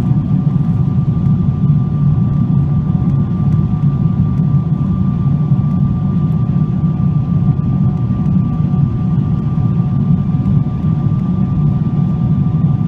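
Boeing 777-200ER's GE90 turbofan engines running at high power, heard inside the passenger cabin: a steady low roar with a steady high whine over it.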